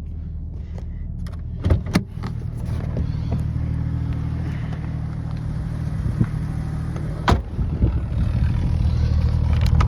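1996 Jeep Cherokee's 4.0 inline-six engine idling steadily, with a few sharp clicks and knocks over it, the first two close together about two seconds in and the others later on.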